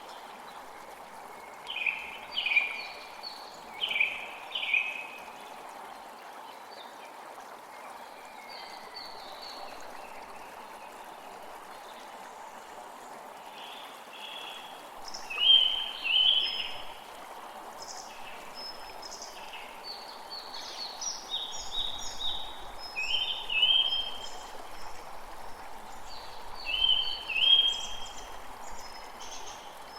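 Creek water flowing steadily, with forest birds calling over it in short phrases of quick repeated notes, most densely in the last third.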